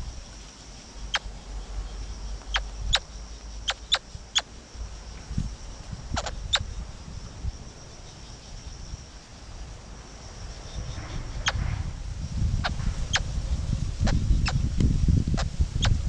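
Short, sharp bird chips, about twenty of them spaced irregularly, over a low wind rumble on the microphone that grows stronger in the second half.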